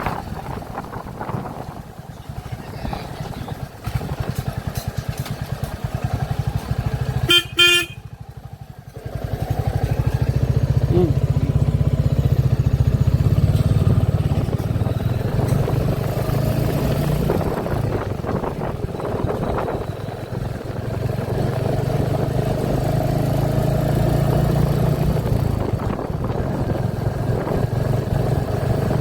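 Royal Enfield motorcycle engine running under way. About seven seconds in, a vehicle horn blares for about a second; it is the loudest sound. From about ten seconds the engine runs louder.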